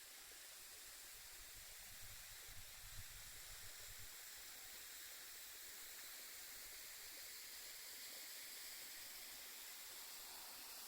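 Faint, steady rushing hiss of a waterfall's falling water, with a few low wind buffets on the microphone about two to four seconds in.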